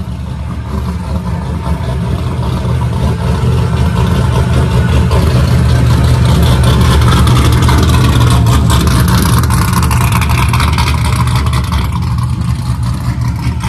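A V8 vehicle engine running steadily under load, growing louder over the first several seconds and then easing off slightly.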